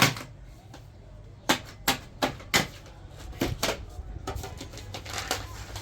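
Irregular sharp clicks and knocks of hard objects being handled, about ten of them, loudest in the first three seconds and fainter after.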